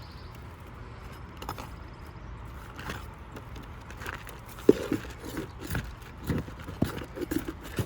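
Roof snake tool scraping and catching under brittle asphalt shingles while feeling for a hidden nail, with a string of short sharp knocks and clicks from about halfway through.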